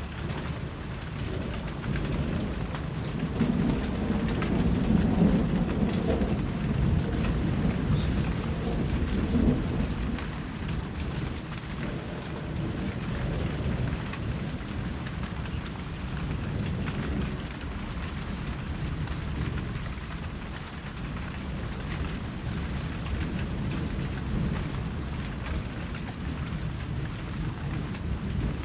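Steady rain falling, with a low rumble that swells a few seconds in and fades by about ten seconds.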